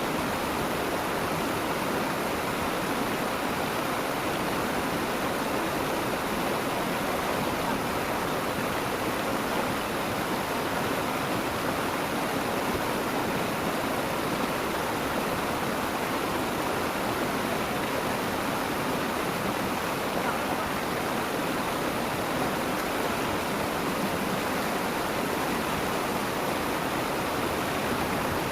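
Steady rush of flowing water from a small river or ditch, even and unbroken throughout.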